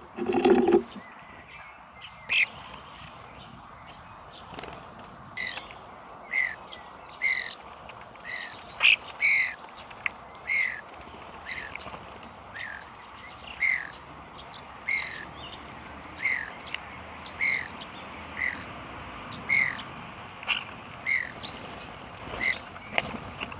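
Short bird-like chirps repeated about once a second, each a quick two-note call, preceded by a brief low sound right at the start.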